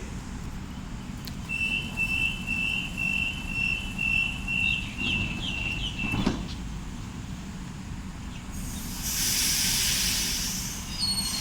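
Electric train standing at a platform, its equipment humming low, with a high pulsing tone for several seconds; about nine seconds in, a loud burst of air hiss lasts about two seconds, pneumatic air venting from the train.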